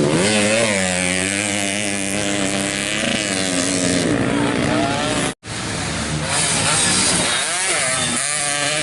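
Several racing motorcycle engines running hard at high revs, their pitches overlapping and rising and falling as the bikes accelerate and shift. The sound cuts out completely for a moment about five seconds in.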